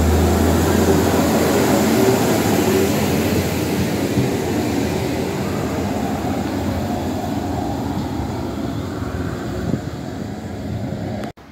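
Ise Railway single-car diesel railcar pulling away from the platform: a low engine hum as it passes close, then engine and wheel rumble that slowly fades as it recedes down the line.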